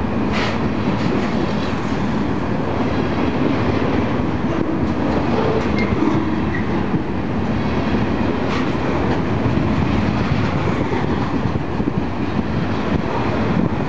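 Freight train rolling past on the rails, a steady loud rumble of wheels on track with a few sharp clacks.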